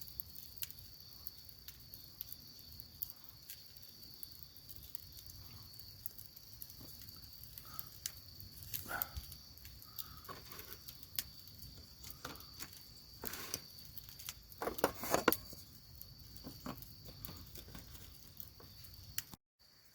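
Faint outdoor ambience of insects chirring: a steady high-pitched drone throughout. Scattered small clicks and a few soft rustles and knocks come in the middle and latter part.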